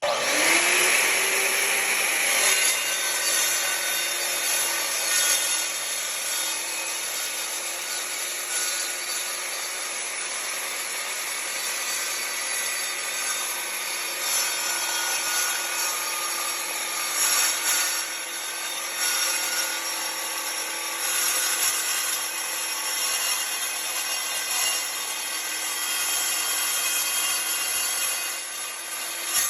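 Evolution 8¼-inch metal-cutting circular saw rising to speed in the first second, then cutting steadily through 3/8-inch-thick steel plate with a high-pitched whine for the length of the 12-inch cut.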